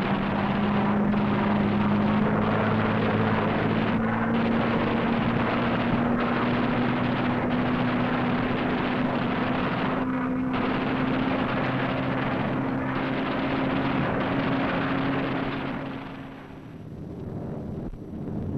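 Propeller fighter plane's piston engine drone, steady and slowly rising in pitch as the plane turns back for another pass, fading out near the end.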